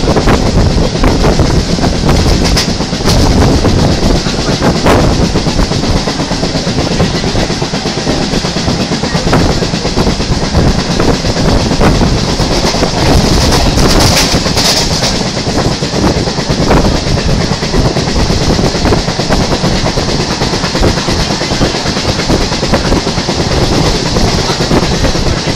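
EMU local train heard from inside the coach as it accelerates: a dense, continuous thudding from the bogie, together with rail clatter and a steady hiss.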